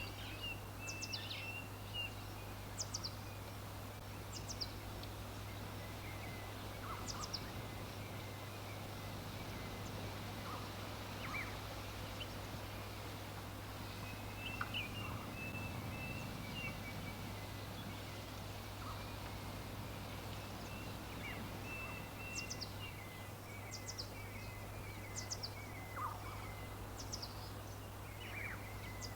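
Wild birds calling, with scattered short chirps and high whistled notes coming every second or two, over a steady low hum and a soft background hiss.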